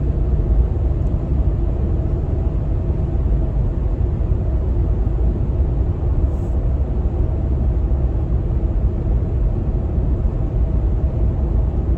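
A truck driving at speed, heard from inside the cab: a steady low rumble of engine and road noise.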